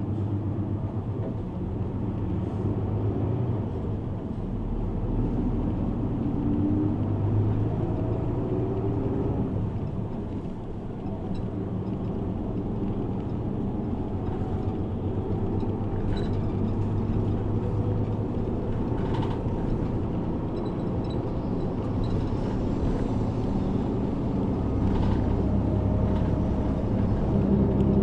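Route bus heard from inside the cabin while driving: a steady engine and road rumble, the engine's pitch rising and falling as the bus speeds up and slows, with a few faint rattles.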